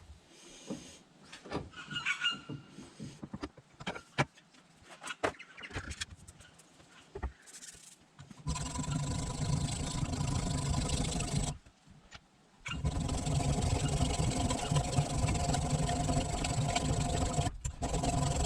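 A few light clicks and knocks, then, about eight seconds in, the maul's blade being sharpened: a loud steady grating sound that breaks off for about a second and then carries on.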